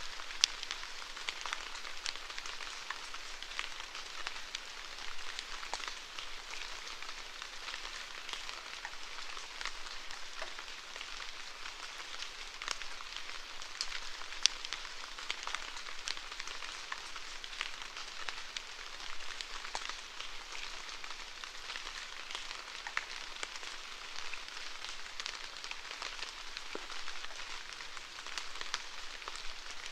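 Steady rainfall, a continuous hiss of rain with many distinct drops ticking and pattering on a hard surface, a few of them sharper and louder.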